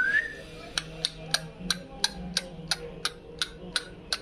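A parrot gives a short rising whistle, then a steady run of sharp clicks follows, about three a second.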